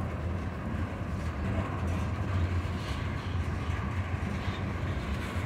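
Freight cars, covered hoppers and a tank car, rolling past on the track, their steel wheels giving a steady low rumble on the rails.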